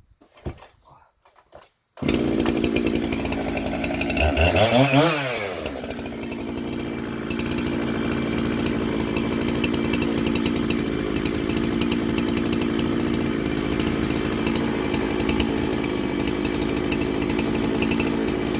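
A woodworking power tool starts abruptly about two seconds in, its pitch rises and falls briefly, then it runs steadily.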